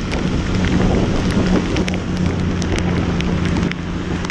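Motorcycle engine running at a steady pace under heavy wind noise on the rider's microphone, with raindrops ticking against it many times in heavy rain.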